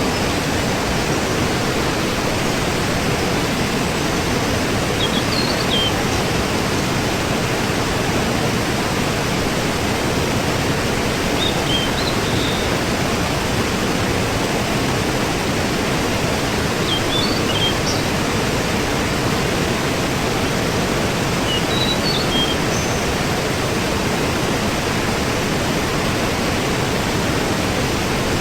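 Waterfall: a steady, even rush of falling water. Short high chirps sound over it every five seconds or so.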